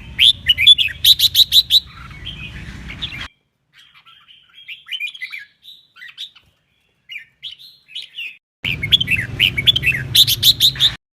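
Red-whiskered bulbul singing a fast run of chirping, warbling notes with a quick series of sharp high notes, twice loudly, at the start and again near the end, with fainter scattered chirps between.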